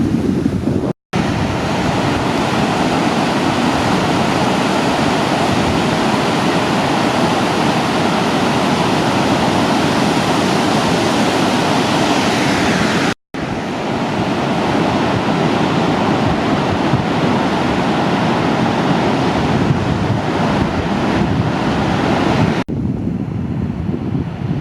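Heavy surf breaking in a steady rush, with wind buffeting the microphone. The sound cuts out abruptly for a moment about a second in and again about 13 seconds in, and turns duller near the end.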